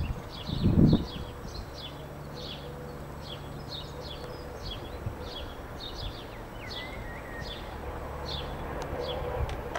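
A small bird chirping over and over, about two short high notes a second. About a second in there is a loud, low rumble on the microphone, and toward the end the noise of an approaching electric train grows slowly.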